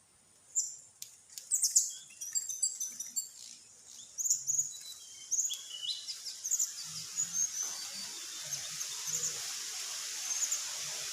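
Small birds chirping in quick, high-pitched bursts, many short calls in a row, with a steady high hiss growing louder through the second half.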